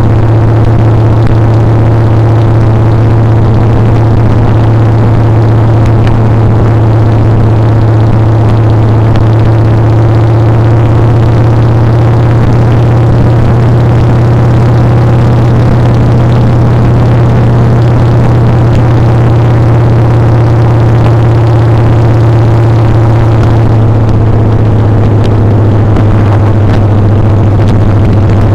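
Motorcycle engine running steadily at cruising speed, its pitch dropping slightly near the end as it eases off.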